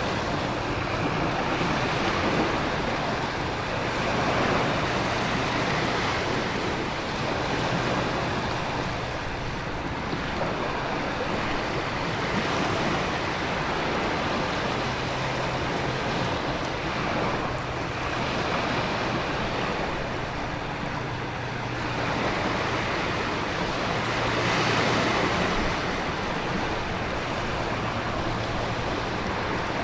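Storm ambience of heavy surf, wind and rain, a continuous rushing hiss that swells and eases every few seconds as waves break.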